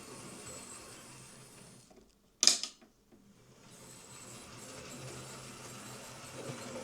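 Hornby OO gauge Merchant Navy model locomotive running on the test track, a small electric motor and gears whirring, with a light squeak from the tender's pickups. The running dies away just before two seconds in, a sharp click follows, then the running picks up again.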